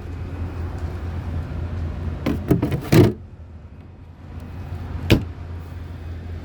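Boat storage hatch lids being handled: a cluster of knocks and thumps a little over two seconds in, then one sharp knock about five seconds in, over a steady low hum.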